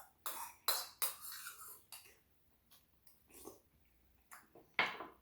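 Close-up eating sounds from a bowl of ramen: a run of short, noisy slurps and mouth noises with quiet gaps between, the strongest one near the end.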